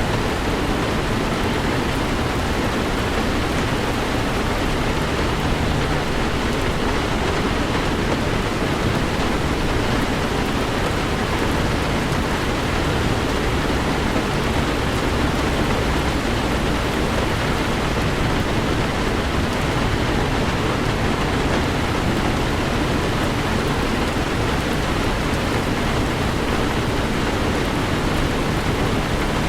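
Heavy rain drumming steadily on a Toyota 4Runner, heard from inside the cabin while driving, with the low rumble of the moving vehicle underneath.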